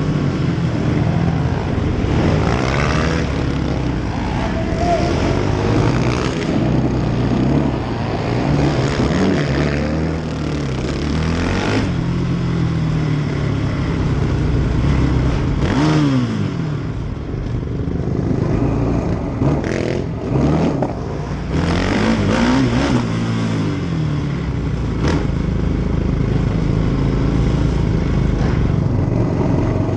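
Several racing quad (ATV) engines running and revving, their pitch repeatedly rising and falling as they accelerate and back off.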